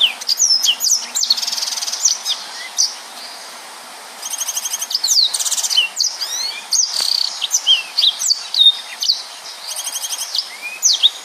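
Yellow-fronted canary singing a fast, dense song of sharp down-slurred whistles and rapid trills, with a short pause about three seconds in before the song resumes.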